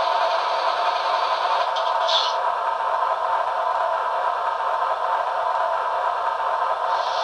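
Sound decoder in an HO-scale GE AC6000 model locomotive playing its diesel engine sound through the model's small speaker: a steady, thin rumble with no deep bass, with a short hiss about two seconds in.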